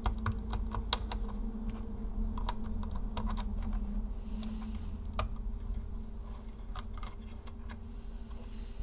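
Irregular light clicks and taps from hands and small tools handling the internal parts of a Dell Latitude E4310 laptop, about the unplugging of its speaker cable, over a steady low hum.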